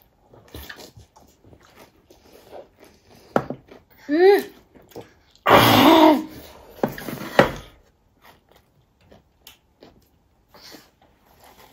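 Soft chewing and small mouth clicks of someone eating. About four seconds in there is a brief voice sound that rises and falls, and about a second later a louder short burst of voice.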